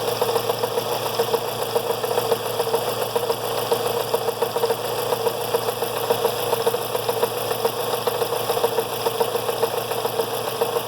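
Fiat Brava 1.6 16-valve engine idling with a fast tec-tec ticking over a steady tone. The noise comes from a timing-belt tensioner left out of its correct position and tensioned beyond normal.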